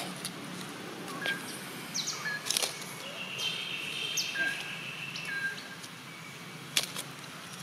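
Background birdsong: a few short chirps, brief falling whistles and one high note held for about two seconds, over steady low background noise, with two sharp clicks.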